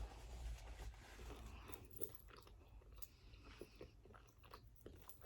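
Faint close-miked chewing of pizza: scattered soft mouth clicks and small crunches.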